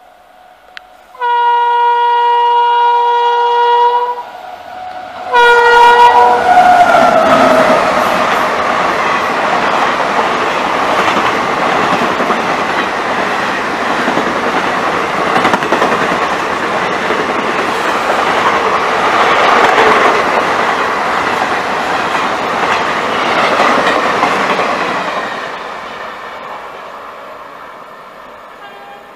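Indian express passenger train (12155 Bhopal Express) sounding its locomotive horn: one long blast, then a short second blast whose pitch drops as the engine passes. Its coaches then run past at speed, the noise dying away over the last few seconds.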